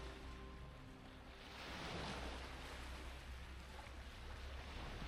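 Background music fading out over the first second or so, then a steady wash of sea water with a low wind rumble on the microphone.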